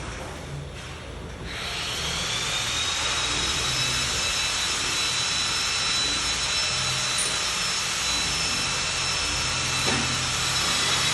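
An electric motor starts up about a second and a half in, its high whine rising and then holding steady over a loud hiss as it runs on.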